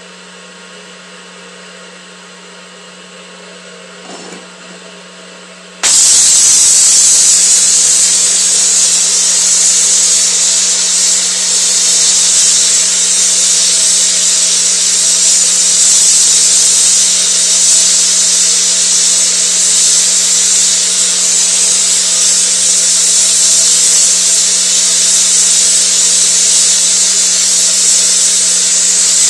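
Bronze brazing on steel rebar: a loud, even hiss of the torch or welding process starts suddenly about six seconds in and holds steady, over a low steady hum.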